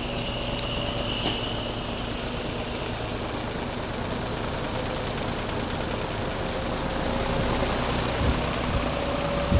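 Vintage AMC metal box fan running on its low speed: a steady rush of air with a faint, even motor hum.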